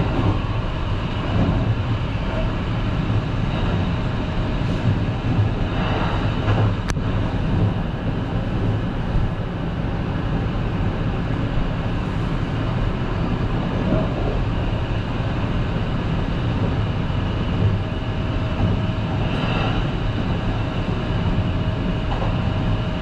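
Running noise of a Kintetsu 22000 series limited express train heard from inside: a steady rumble of wheels on rail, with a sharp click about seven seconds in and a faint steady whine in the second half.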